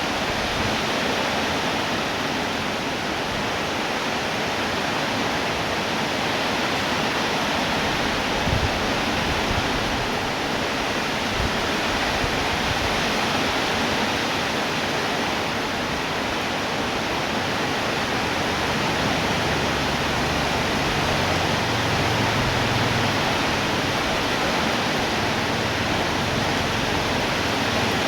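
Steady, heavy rainfall: an even, unbroken hiss of rain with no change in strength.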